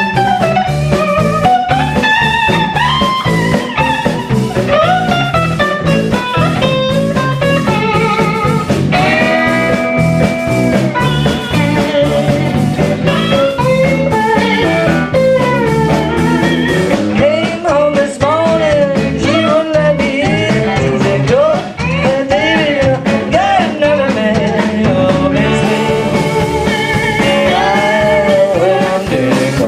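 Live band playing a blues number, with a bending lead guitar line over bass and drums.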